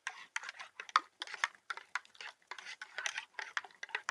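A spoon stirring instant coffee in a mug, with rapid, irregular clinks and scrapes against the sides.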